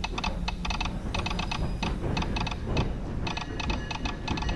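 Rapid, irregular clicking of a telegraph sounder, like Morse code being tapped out, over a steady low rumble.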